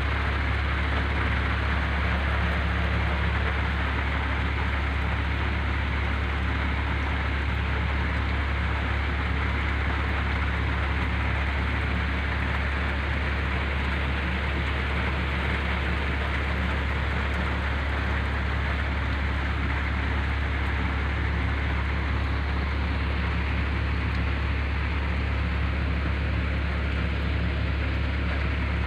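Heavy rain pouring down steadily, with a steady low hum underneath.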